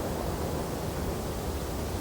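Wind blowing steadily through tree branches in a snowstorm: an even, low rushing noise with no gusts or breaks.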